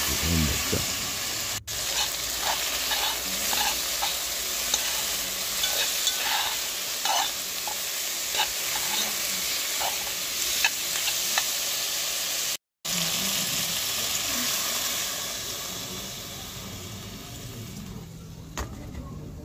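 Chicken frying in a cast-iron pot with a steady sizzle, while a metal spoon scrapes and clinks against the pot as the pieces are stirred. The sizzle eases off near the end.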